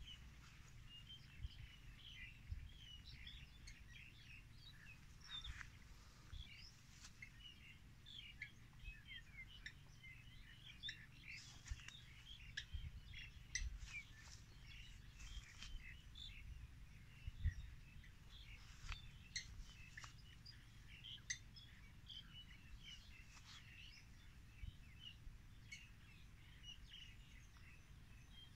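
Faint chorus of small birds chirping and twittering, many short calls overlapping throughout, over a low rumble with a few soft knocks.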